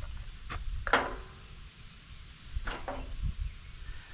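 A few sharp knocks and clunks of hard objects being handled and set down, the loudest about a second in and another near two and a half seconds in.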